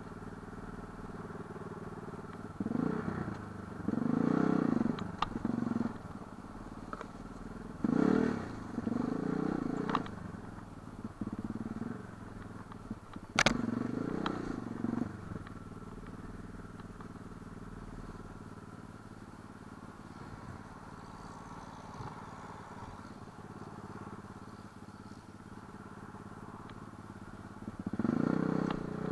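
Light enduro motorcycle engine running, with the throttle opened in several short revving bursts between lower stretches. About halfway through there is one sharp knock.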